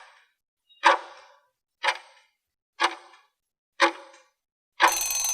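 Countdown-timer sound effect: four clock-like ticks about one a second, each with a short ring, then a bell ringing for about a second near the end.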